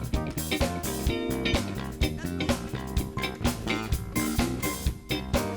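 A live band plays an instrumental passage: electric guitar over a drum kit keeping a steady beat of about two hits a second.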